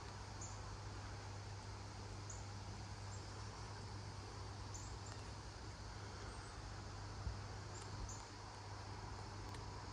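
Steady rush of wind noise outdoors with a low hum underneath. Faint, short, high chirps come every second or two.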